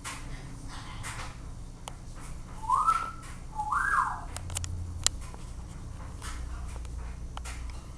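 Two short whistled notes about a second apart, each rising and then falling in pitch, over scattered light ticks and taps.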